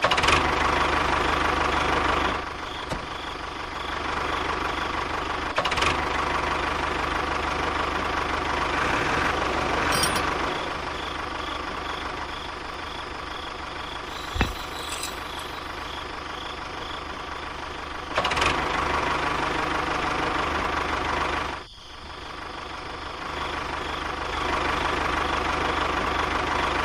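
A small electric motor of a homemade toy model running with a steady hum that grows louder and softer several times, with a sharp dip about three-quarters of the way through and a single click about halfway.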